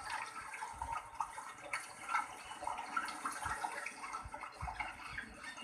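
Shallow water splashing and dripping in an irregular patter, with a few soft low thuds.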